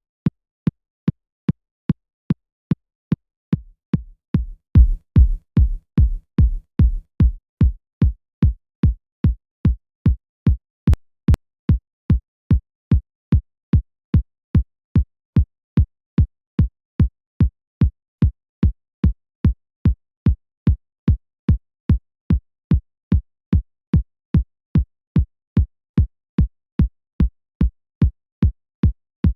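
Synthesized electronic kick drum repeating about twice a second, each hit short with a click on top, its sound being shaped in a DAW. A few seconds in, the hits briefly take on a louder, deeper, longer-ringing low end before going short again. A single sharp click sounds near the middle.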